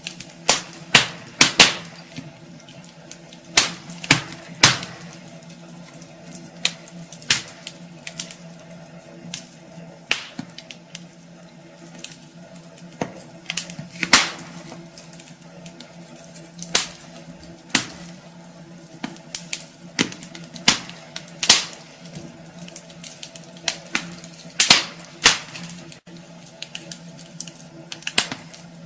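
Wood fire crackling in a fireplace: irregular sharp pops and snaps of burning logs, some louder than others, over a faint steady hum.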